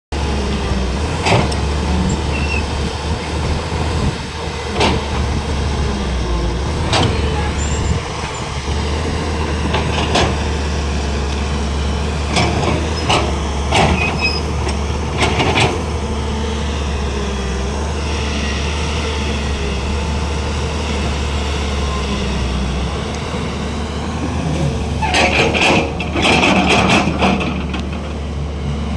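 JCB 205 excavator's diesel engine running steadily, with sharp metallic clanks every few seconds and a louder burst of clattering near the end.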